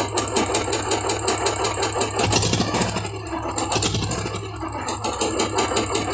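Royal Enfield Classic 350's single-cylinder engine idling after an electric start, with a steady tick-tick-tick about six times a second. The mechanic puts the ticking down to the connecting rod at the crank, a fault that means opening the whole engine.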